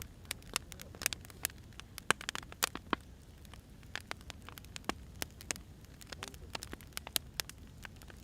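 Wood fire crackling: irregular sharp pops and snaps of burning logs over a low steady rumble.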